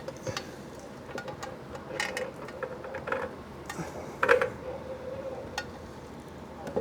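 Scattered light metallic clinks and knocks as a motorcycle swing arm is worked into place through the drive chain, with a sharper knock about four seconds in.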